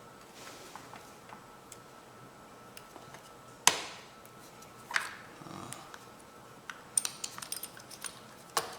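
Hand tools clinking and knocking on metal: a sharp knock with a short ring about three and a half seconds in, another about five seconds in, then a quick run of light clinks near the end.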